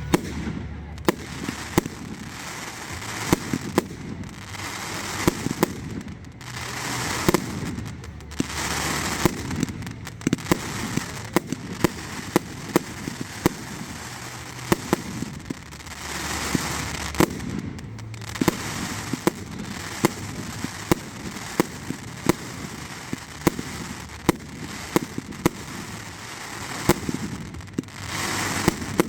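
Fireworks display: a steady run of sharp bangs from bursting shells, several a second at times, over crackling and hissing from the bursts.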